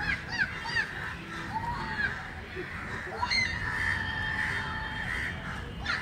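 Birds calling: a quick run of short, downward-sweeping chirps at the start, a few scattered calls, then one longer held call near the middle, over a steady low background hum.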